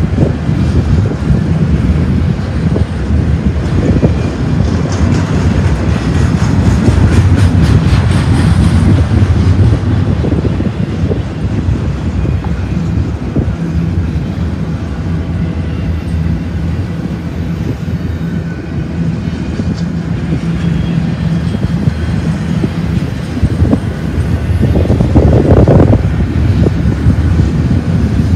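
Double-stack intermodal freight train rolling past close by: a steady low rumble of the well cars with rapid wheel clicks, and a brief louder surge near the end.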